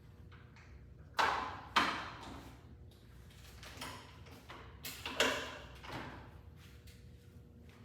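Clunks and rattles of metal parts and tools handled while a miter saw blade is changed. Two sharp knocks come a little over a second in, the loudest comes about five seconds in, and lighter knocks fall between them.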